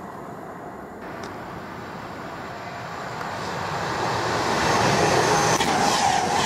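A Class 390 Pendolino electric express train approaches at speed and passes through the station without stopping. Its rushing noise builds over the first few seconds and grows loud as the front draws level. Near the end a quick, regular beat of the wheels joins in.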